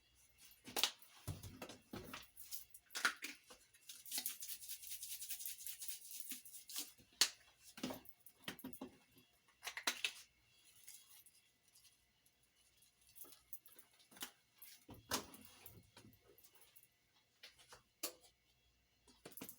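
Seasoning being added by hand: a shaker rattled for a few seconds about four seconds in, with scattered knocks and clicks of containers and lids being handled and set down.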